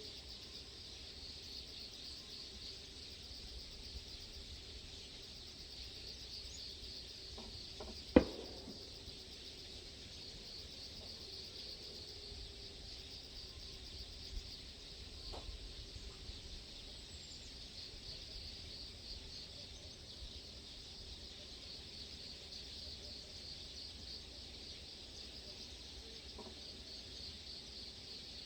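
Steady outdoor chorus of chirping insects, a continuous high pulsing trill. About eight seconds in there is a single sharp click, with two fainter ticks later.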